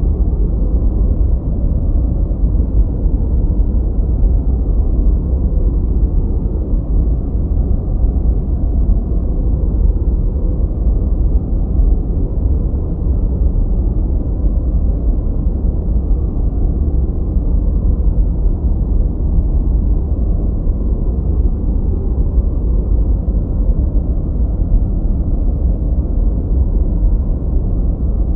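Continuous generated noise, steady and unchanging, deep and rumbling rather than hissy, with its energy mostly in the low range.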